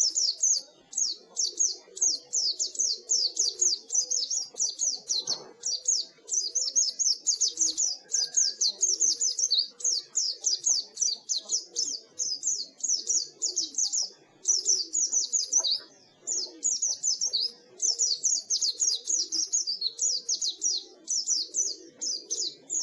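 White-eye (pleci) singing a fast, continuous twittering song of high, quick notes, broken only by short pauses.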